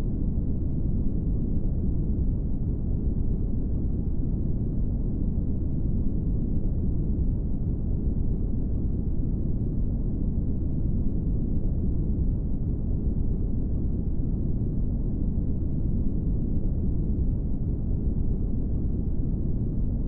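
Brown noise: steady, unchanging low-pitched noise, strongest in the bass and thinning out toward the treble.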